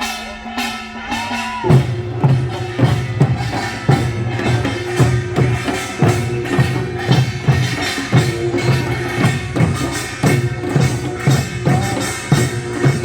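Korean folk music from a folk sound-drama: percussion strikes in a steady beat of about two a second, kicking in about two seconds in, over a steady held note.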